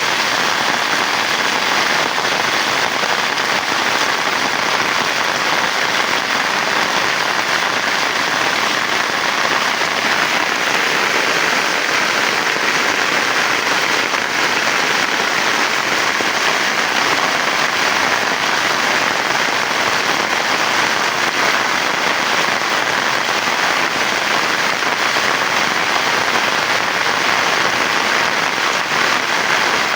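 Heavy rain falling steadily: a dense, even hiss of rain with no letup.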